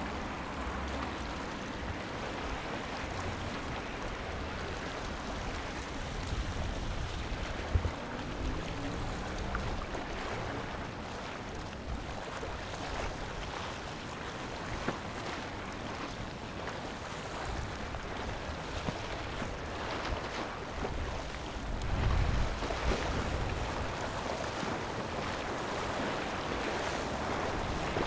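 Wind buffeting the microphone over a steady wash of water, with a stronger gust about twenty-two seconds in.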